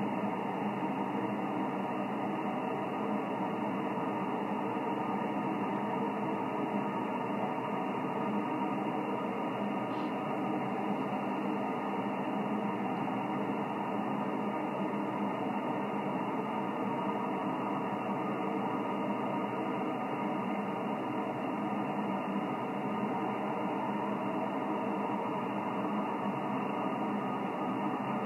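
Steady static hiss from an HF amateur radio receiver (a Yaesu FT-1000MP) tuned to an empty 20-metre single-sideband frequency. The band noise is cut off sharply above about 3 kHz by the receiver's passband, with faint steady whistles mixed in.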